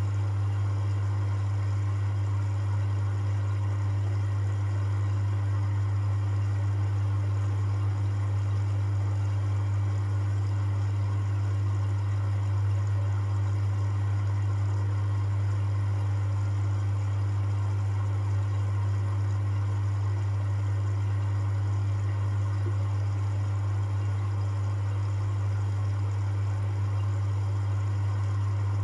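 Privileg 5020 front-loading washing machine running with a steady, unchanging low hum.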